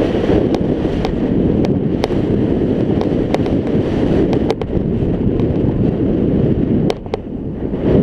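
Wind buffeting the camera microphone while riding a scooter, a loud, steady rumble that buries the engine, with scattered sharp clicks throughout. The rumble drops briefly about seven seconds in.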